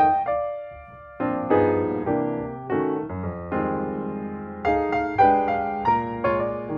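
Background piano music: soft chords and melody notes, each struck and fading.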